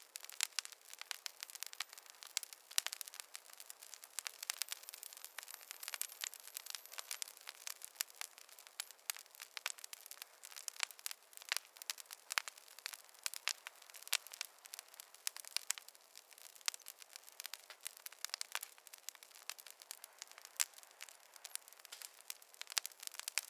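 Campfire crackling: a steady run of irregular small pops and snaps, some sharper than others, at no even rhythm.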